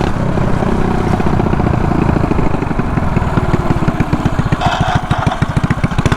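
Mini bike's small single-cylinder engine running on the road. About two seconds in it eases off to lower revs, where its firing pulses are heard one by one.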